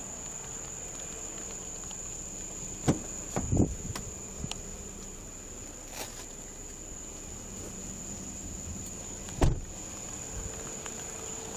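Steady high-pitched insect chorus, with a few sharp knocks and thumps: a pair about three seconds in and a loud one about two-thirds of the way through.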